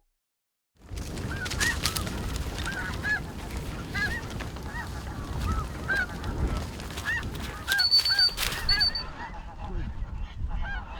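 A flock of snow geese calling: many short, high yelping notes over and over, starting after about a second of silence. Heavy wind rumbles on the microphone underneath.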